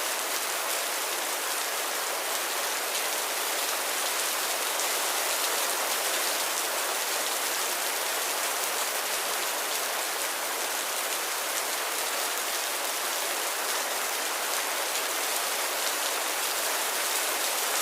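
Steady light rain falling, an even hiss of many drops with no thunder.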